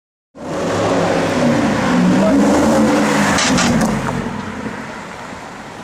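Ferrari 599's V12 engine accelerating hard, its exhaust note cutting in abruptly, rising a little and then fading after about four seconds, with a few sharp cracks near the middle.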